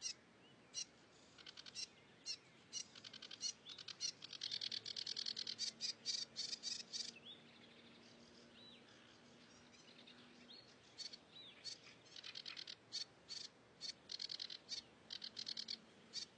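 A small songbird, known in Indonesian as the cigrok, calling in fast runs of short, sharp high notes, with a quieter spell in the middle that holds a few looping whistled notes.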